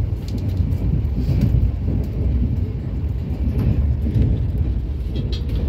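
Steady low rumble of a Jan Shatabdi Express passenger coach running along the track, with a few faint clicks.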